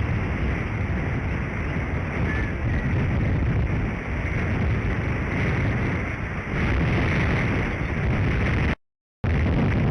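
Strong wind blowing across an outdoor camera microphone, a steady rush of noise heaviest in the low end. The sound cuts out completely for about half a second near the end.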